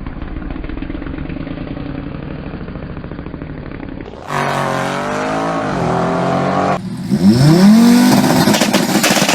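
Audi RS engine idling low and steady, then about four seconds in revving up and held at high revs on launch control, then launching hard near the end with the engine note rising sharply as the car accelerates away.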